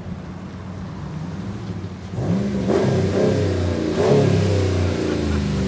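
2016 Ram Rebel pickup's engine running steadily, then revved hard about two seconds in, the pitch rising and falling twice, during a burnout attempt with traction control on.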